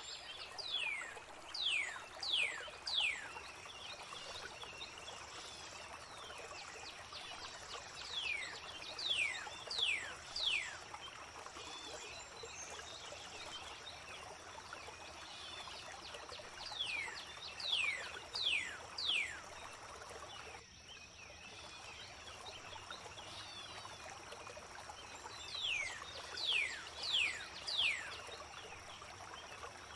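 A songbird repeating a phrase of four quick downward-sliding whistles, one group about every eight seconds, over a steady trickle of flowing water.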